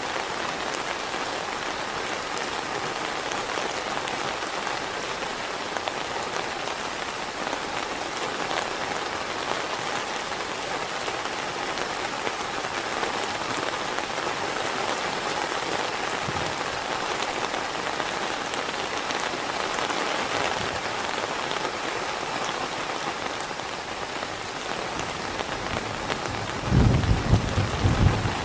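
Heavy rain falling steadily. About two seconds before the end, a low rumble of thunder comes in over it.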